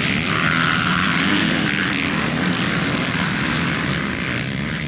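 Motocross bike engines running and revving on the track, a steady high buzz.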